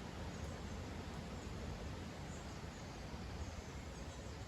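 Faint, scattered high chirps of small songbirds over a steady background hiss and low rumble.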